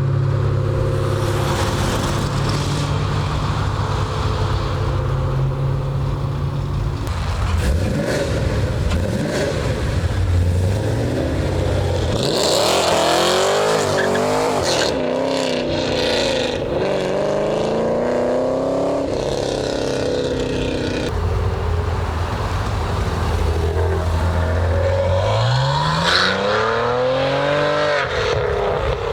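Car engines idling, then revving and accelerating away with rising and falling pitch as cars pull out. One engine climbs steeply in pitch near the end.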